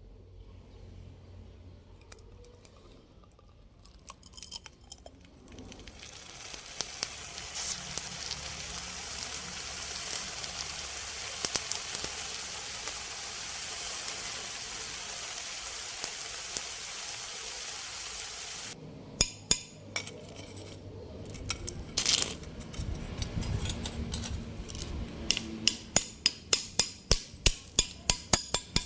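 Molten aluminum crackling and sizzling steadily for about twelve seconds, with small pops throughout, as baking soda is stirred into the melt. This gives way abruptly to scattered metal clinks and knocks, then a quick run of sharp metallic taps, about four or five a second, near the end.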